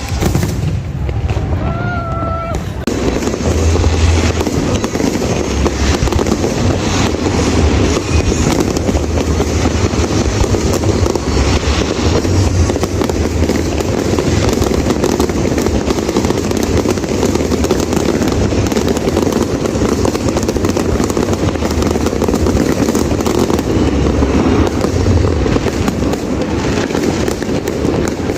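Large fireworks display going off continuously: repeated deep booms mixed with dense crackling.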